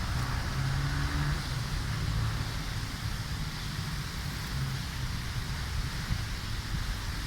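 Steady wind blowing, with a constant low rumble underneath.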